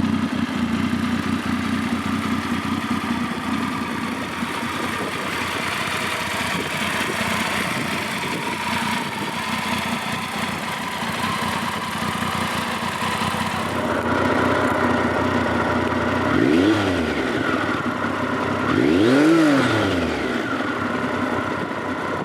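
Triumph Speed Triple 955cc three-cylinder engine running at a steady idle through its exhaust, then blipped twice near the end, the revs rising and falling back each time.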